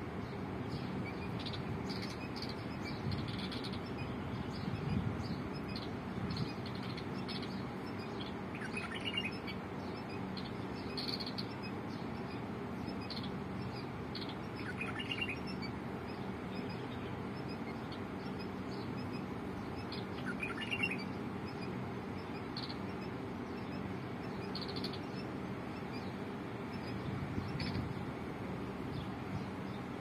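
Small birds chirping repeatedly in short, high notes, with a longer, more prominent call three times, about six seconds apart, over a steady background hiss.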